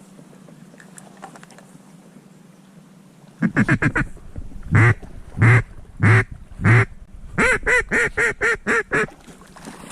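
Mallard-style duck call quacking loudly: a quick burst of short notes, four long quacks a little over half a second apart, then a fast run of about eight shorter quacks.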